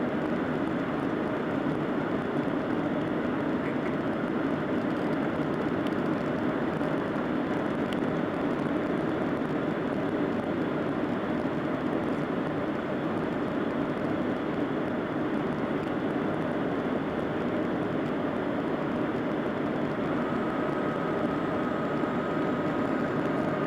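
Steady noise of a Boeing 737-600 in flight, the rush of airflow and its CFM56-7B turbofan engines as heard from inside the cabin, holding an even level. A faint steady high tone joins near the end.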